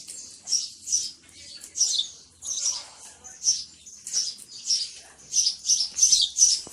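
Small birds chirping, a string of short high-pitched calls about twice a second, coming a little faster near the end.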